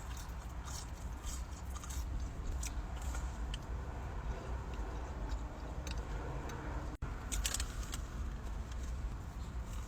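Close-miked chewing of a crispy fried chicken burger: scattered crisp crunches over a steady low hum, with a thicker cluster of crunches just after a brief dropout about seven seconds in.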